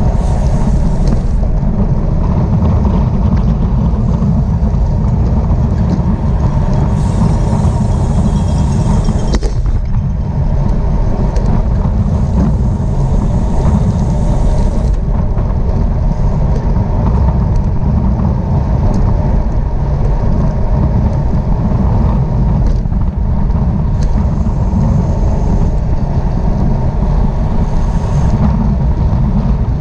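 Steady, loud wind rushing over a bike-mounted camera's microphone at racing speed, a deep buffeting rumble that never lets up.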